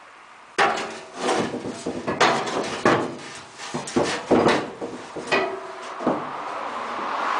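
Metal exhaust pipe and resonator clanking and knocking as the stock exhaust is wrestled loose under the truck: a string of irregular sharp knocks, some with a short metallic ring.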